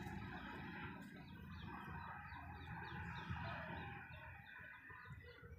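Birds calling: a steady run of short, falling chirps, a few each second, faint over a low rumble of outdoor background noise.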